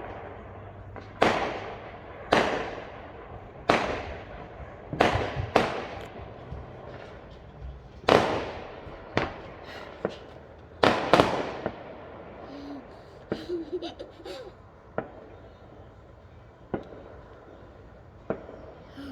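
Fireworks exploding: a string of sharp bangs, each trailing off with an echo, about one every second or so for the first eleven seconds. After that come a short burst of crackling and a few fainter scattered pops.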